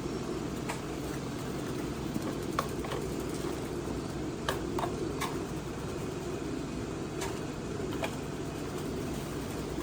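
Steady low mechanical hum with a handful of short, sharp clicks scattered through it.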